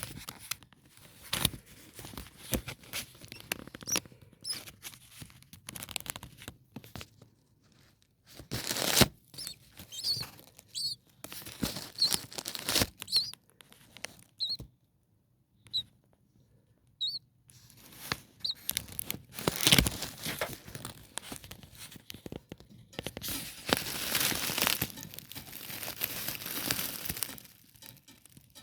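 Irregular rustling and crinkling in the nest, with a scatter of very short, faint high peeps from four-day-old starling nestlings.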